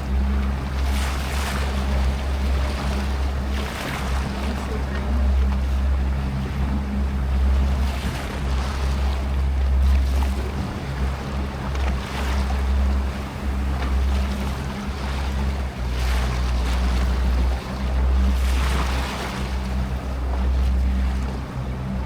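Small motorboat's engine running steadily, with water washing past the hull that swells in a hiss every few seconds, and wind buffeting the microphone.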